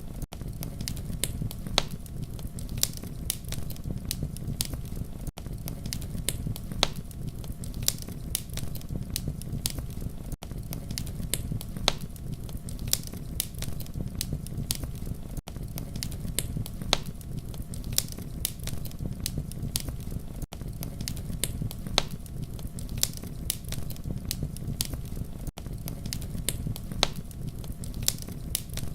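Campfire burning with a steady low rumble and frequent sharp crackles and pops, broken by a brief dropout about every five seconds.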